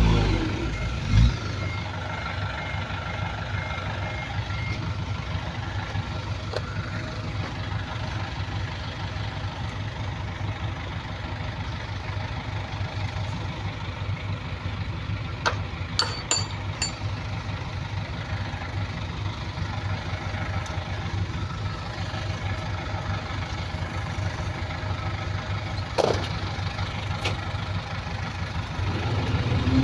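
Diesel engine of a heavy earthmoving machine settling from higher revs into a steady low idle, revving up again near the end. A faint pulsing reversing beeper sounds in the first few seconds, and there are a few sharp knocks.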